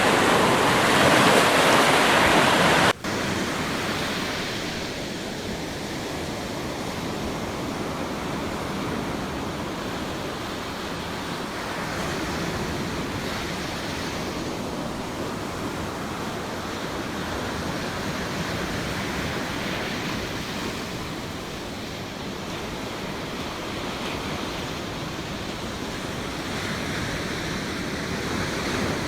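Ocean surf washing on a beach as a steady rushing noise. About three seconds in, the loud, bright surf cuts off abruptly and gives way to a quieter, duller wash of waves that swells gently now and then.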